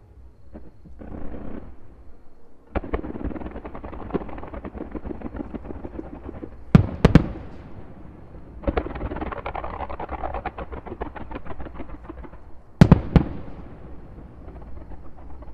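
Aerial fireworks display: a short hiss, then dense crackling of bursting stars, with two sharp loud shell bursts about seven seconds in and two more about thirteen seconds in.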